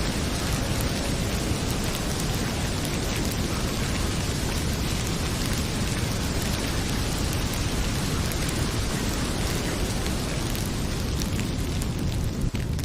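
Heavy rain pouring steadily, with a deep low rumble and a few faint crackles of a wood fire in a fireplace. The sound dips briefly just before the end.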